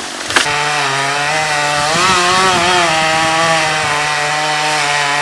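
Two-stroke chainsaw running at high revs from about half a second in, its pitch wavering slightly as the load on it changes, after a short sharp click.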